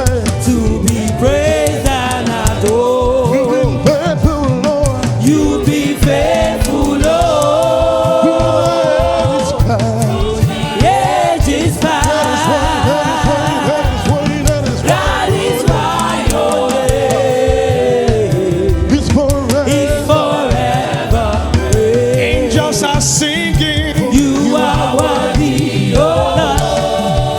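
Gospel choir singing with a live band, voices holding and bending long sung notes over a steady drum beat.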